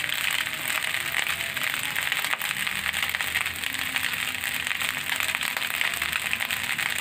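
Nasi goreng (fried rice) sizzling in a hot pan: a steady hiss peppered with many small crackles.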